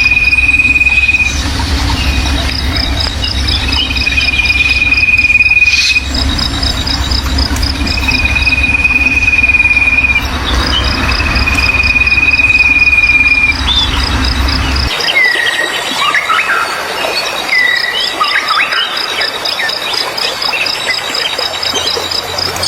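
A songbird giving long, level whistled notes, four in a row, then switching to quick varied chirps and slurred calls about 15 s in, over an insect's steady high pulsed chirping. A low rumble under the first part cuts off suddenly about 15 s in.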